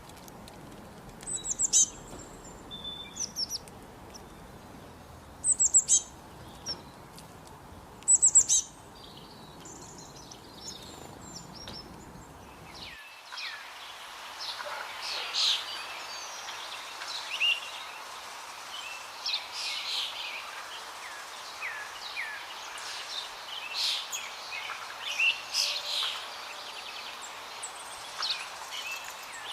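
Birds calling: a few loud, sharp, high-pitched chirps over a steady hiss, then, after a sudden change about halfway through, many small birds chirping and twittering together.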